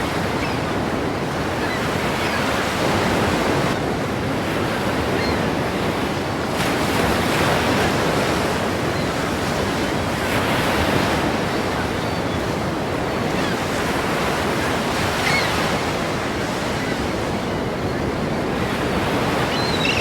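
Ocean waves crashing and washing in continuously, the surf swelling louder every few seconds.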